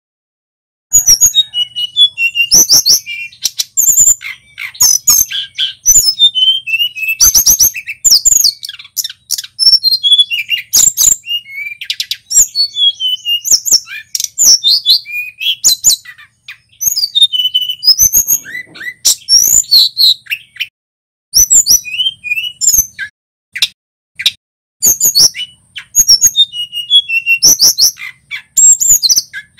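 Male tledekan gunung singing a loud, fast song of high chirps, trills and whistled notes in phrases separated by short pauses, starting about a second in.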